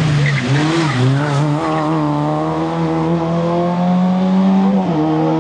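Rally car passing at speed and driving away under hard acceleration. The engine note wavers as it goes by, then climbs steadily and drops once near the end at an upshift.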